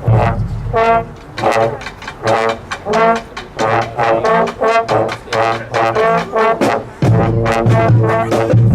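Lively band music led by brass horns, playing short, punchy notes in a quick rhythm; a steady low bass line comes in about seven seconds in.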